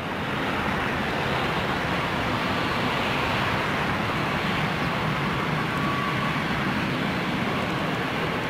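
Aircraft engine noise near the runway: a steady rushing sound with a faint high whine running through it.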